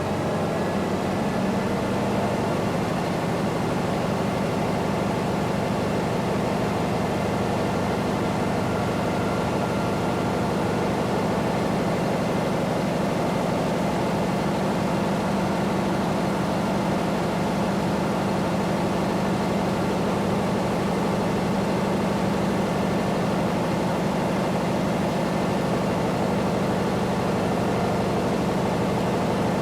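Construction site ambience: heavy machinery engine running steadily at a constant speed, a low hum with a few steady tones over a broad mechanical noise.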